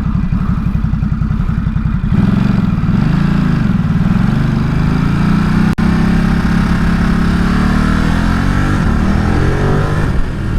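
Ducati Supersport 950 S's twin-cylinder engine running hard under acceleration. Its pitch jumps about two seconds in, dips and rises around a gear change, then climbs steadily.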